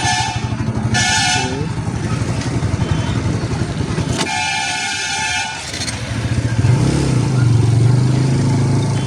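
Motorcycle engine running at road speed, with a vehicle horn honking: a short honk about a second in and a longer one around four to five and a half seconds in. The engine note rises about seven seconds in.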